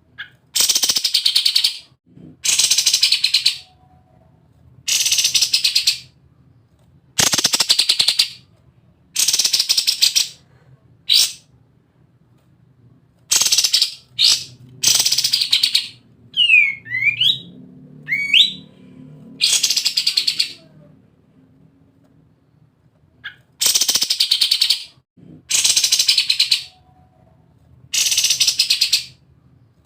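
Kapas tembak songbird singing in its rapid-fire 'ngebren' style: buzzy, rattling bursts about a second long, repeated every couple of seconds. About halfway through come a couple of sliding whistled notes.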